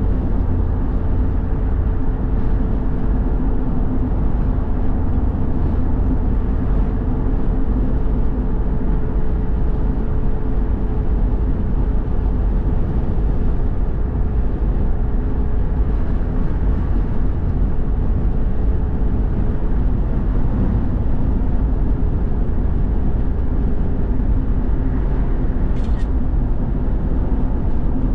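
A car being driven, with a steady engine and road rumble and a faint constant hum. Two faint clicks come near the end.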